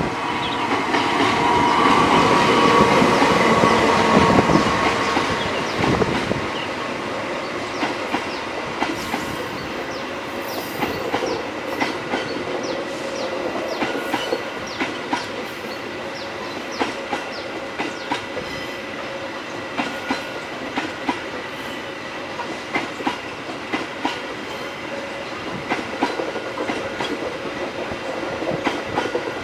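Diesel locomotive passing close by, loudest for the first five or six seconds. Then a long rake of passenger coaches rolls past with a steady clickety-clack of wheels over the rail joints.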